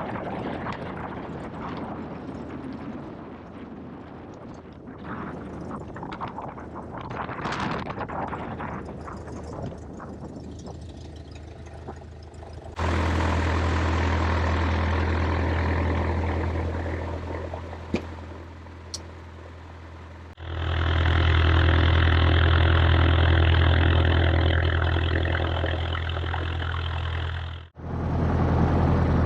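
Light aircraft's piston engine heard as a steady drone, preceded by uneven wind buffeting on the microphone. The sound changes abruptly about 13 s in and again about 20 s in, where it becomes louder and hissier, with a brief dropout near the end.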